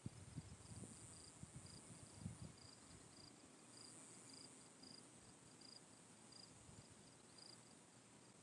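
Faint insect chorus: a cricket chirping steadily about twice a second over a high, steady insect drone that swells and fades. A few soft low thumps in the first couple of seconds.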